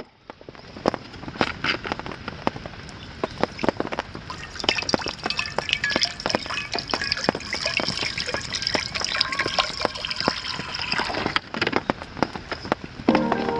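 Cooking over a campfire: many small crackles and pops with a sizzling hiss that swells about five seconds in and dies down near the end. Music comes in at the very end.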